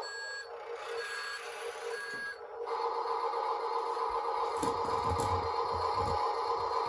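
Reversing beeper on a radio-controlled construction model, three short beeps about a second apart. From about three seconds in, a steady mechanical whine takes over, with dull low knocks in the second half.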